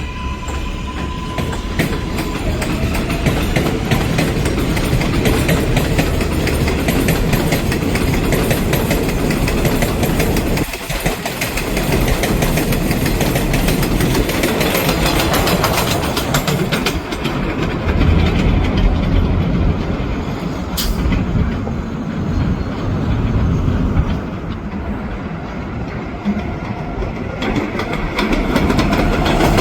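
A 7 subway train of R188 cars running on the elevated steel structure: a steady loud rumble with fast clicking of wheels over rail joints, and a short sharp click about 21 seconds in.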